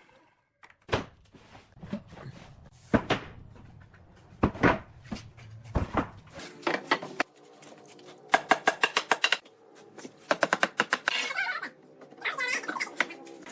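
Scattered knocks and clatter from hand work on wood, then two runs of rapid tapping at about eight taps a second.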